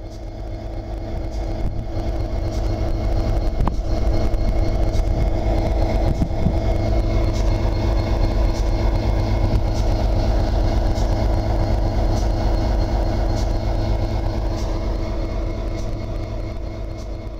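Train running steadily: a loud deep rumble with constant hum tones above it and faint scattered clicks, fading in at the start and fading out near the end.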